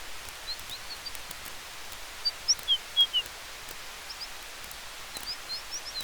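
Forest ambience: a steady hiss of wind with a faint crackle of a campfire, and short high bird chirps throughout, loudest in a quick run of them about two to three seconds in.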